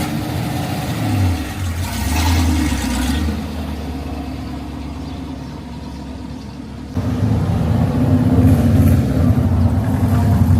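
Car engine running, swelling louder about two seconds in; about seven seconds in the sound changes abruptly to a louder, deeper engine note.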